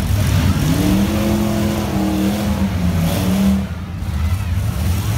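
Demolition derby car engines running with a heavy low rumble. One engine revs up about half a second in, holds high, and drops back at about three and a half seconds.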